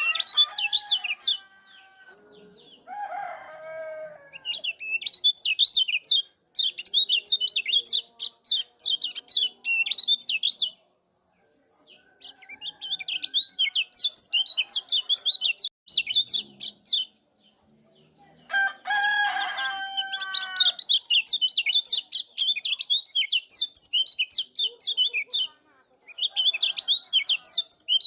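Kecial kuning white-eyes giving rapid, high 'ciak' chirping calls in bouts of several seconds, separated by short pauses. A lower, fuller bird call like a chicken's comes in about three seconds in and again just past the middle.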